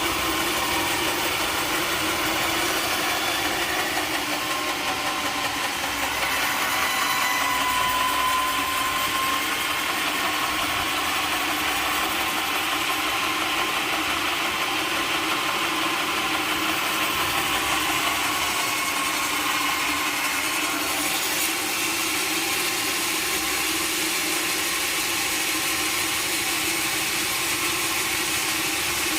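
Sawmill machinery running steadily, a continuous engine-like drone with no break, and a faint thin whine rising briefly about a quarter of the way in.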